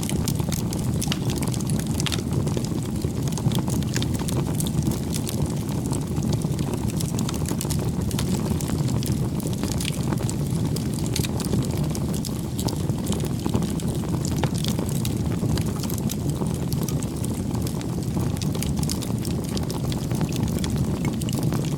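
Wood bonfire burning: a steady low rush with frequent sharp crackles and pops scattered throughout.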